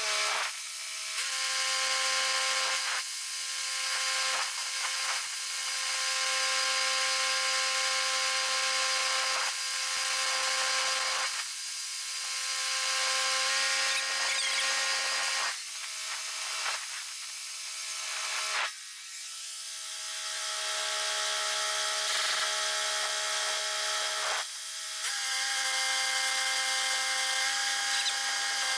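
Arc welding on steel plate: a steady sizzling hiss over a low hum, in runs of a few seconds that stop and restart about six times as beads are laid.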